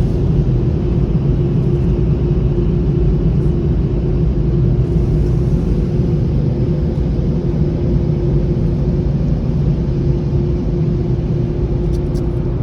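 Ryko automatic car wash dryer blowers running, a loud steady rush of air with a constant hum, heard from inside the car.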